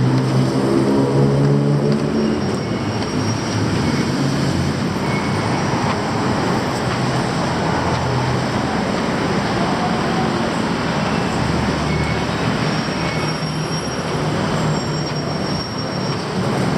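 A train running: a steady, loud rolling rumble, with a motor whine that rises over the first couple of seconds and faint high squeals of the wheels later on.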